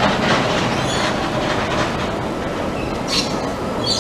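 Steady rumble and clatter of wheels rolling along a rail track.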